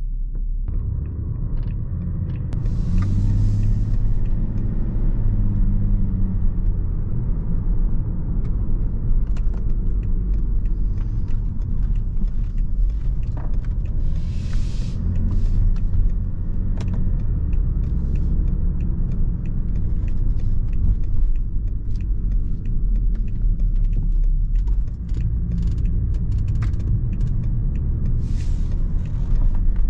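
BMW 530xd's 3.0-litre straight-six turbodiesel heard from inside the cabin while driving in town, its low note rising and falling as it speeds up and shifts, over road and tyre noise. A few short bursts of hiss break in now and then.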